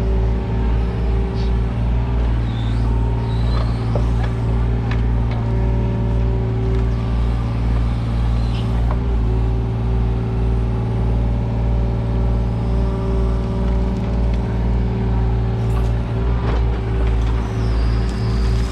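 Mini excavator's diesel engine running steadily at a constant speed, with a few light knocks.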